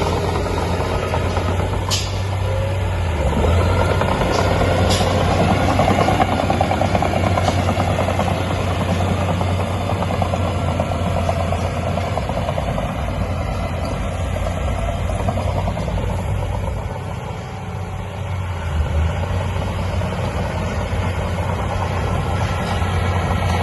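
Heavy diesel engine of earthmoving machinery running steadily with a deep hum, easing off briefly about three-quarters of the way through. A few sharp metallic clanks sound in the first seconds.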